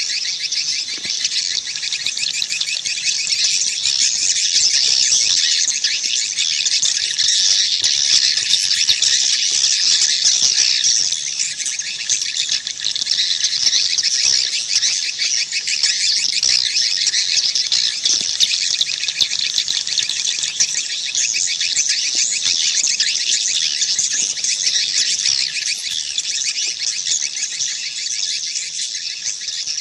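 Swiftlet call recording of edible-nest swiftlets twittering: a dense, continuous high-pitched chirping chorus with nothing low beneath it. This is the kind of call sound played to lure swiftlets into a nesting house.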